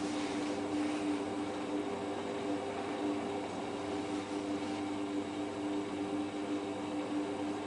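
Hotpoint Ultima WT960 washing machine running with a load of heavy mats, its motor giving a steady hum at one even pitch.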